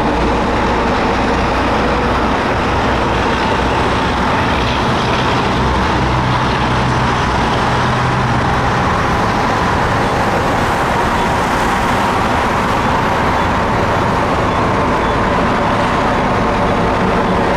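2003 International dump truck's diesel engine running steadily.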